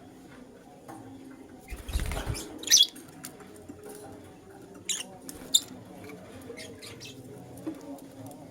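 Young lutino lovebirds chirping in short, high squeaks, with a few sharp, loud chirps near the middle. A dull thump with rustling about two seconds in.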